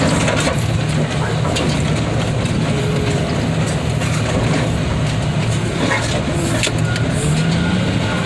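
Heavy equipment engine running steadily, with a few faint knocks and clanks.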